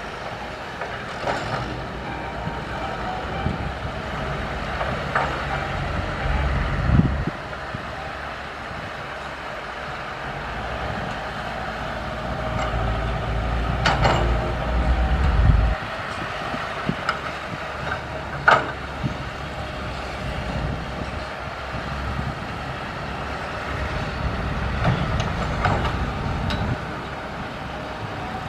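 SANY SY135F excavator's diesel engine running steadily and pulling harder twice under hydraulic load, with scattered sharp metal clanks.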